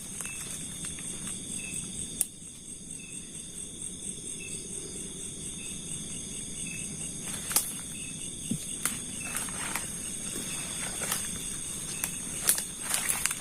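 A night chorus of crickets and other insects trilling steadily at several high pitches, with a softer chirp repeating evenly underneath. A few sharp crackles of footsteps in dry undergrowth break in now and then, the loudest near the end.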